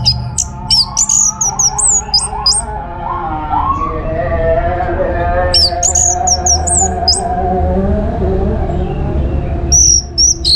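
Orange-headed thrush singing: two bursts of rapid, high, varied chirping phrases, one at the start and one about midway, with more beginning near the end. A steady, wavering lower tone runs underneath.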